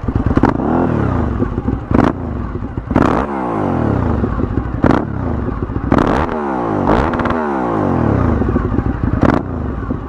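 Sport motorcycle engine ridden off-road, its revs rising and falling over and over as the rider opens and closes the throttle, with several sharp clattering knocks over the engine sound.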